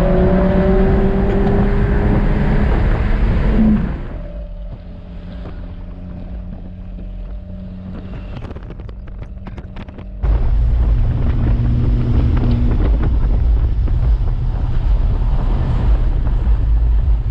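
Car engine running while driving, its pitch climbing under acceleration for the first few seconds, with wind buffeting the microphone. It drops to a quieter, steady engine hum with a few clicks, then a loud low rumble cuts back in about ten seconds in.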